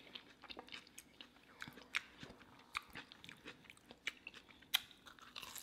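A person chewing a mouthful of deep-fried taco, with irregular small crunches and mouth clicks and a sharper crunch near the end.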